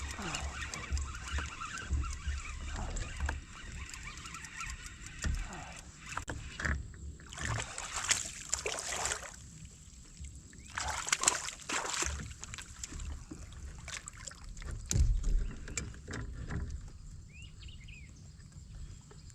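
Water splashing and sloshing beside a kayak as a hooked bass is reeled in and landed, with two louder splashes in the middle and low bumps and knocks on the hull.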